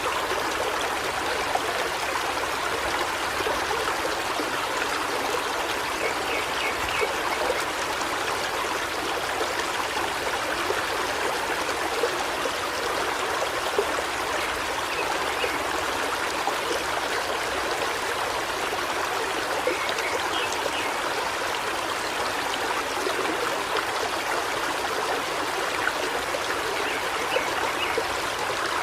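A forest river flowing steadily over rocks: an even rushing and babbling of water.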